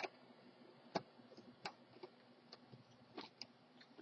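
Faint, irregular clicks and ticks of a screw being worked out of the plastic base plate of an upright vacuum cleaner, about seven sharp clicks at uneven spacing.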